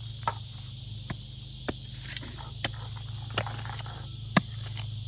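Digging in beach sand for a metal-detector target: about six scattered sharp clicks and knocks, the loudest a little past four seconds in, over a steady low hum and hiss.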